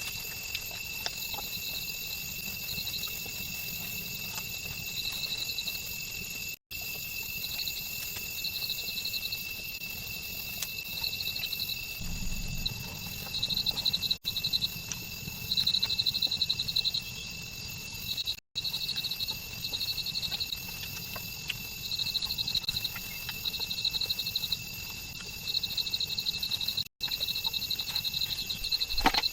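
Rainforest insects calling: a steady high-pitched drone with chirping trills above it, repeating in bursts of about a second. The whole soundscape cuts out briefly four times.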